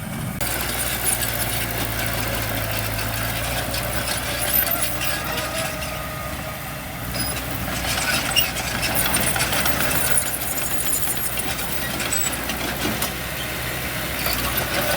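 Heavy construction machinery's diesel engine running steadily, dipping slightly in level about halfway through.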